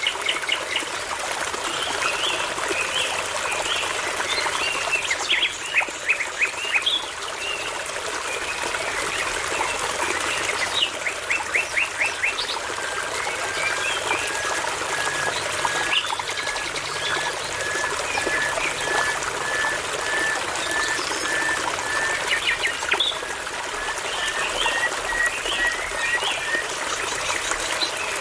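Songbirds singing over the steady rush of a babbling brook: quick chirps and rapid trills early on, then one bird repeating a short, slightly rising note at an even pace through the second half.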